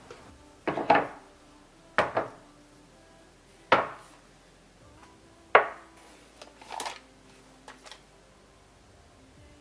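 Kitchenware being handled: about six separate clinks and knocks of dishes and utensils at irregular intervals, the loudest in the first half.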